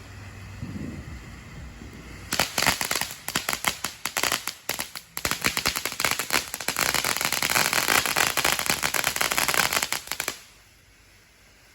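Consumer firework crackling: a fast, dense rattle of sharp pops that starts about two seconds in, comes in uneven spurts at first, then runs as a steady hail before cutting off suddenly near the end.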